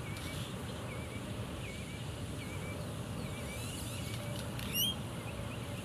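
Wind rumbling on the microphone, with a bird giving short high chirps about every half second and one louder rising call near the end.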